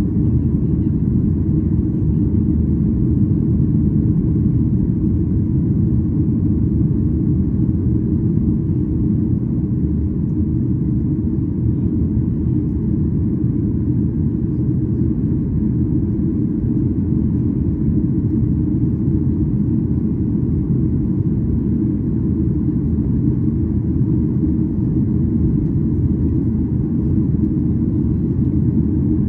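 Boeing 737-800 cabin noise: a steady low rumble of the CFM56 engines and airflow, heard inside the cabin, unchanging throughout.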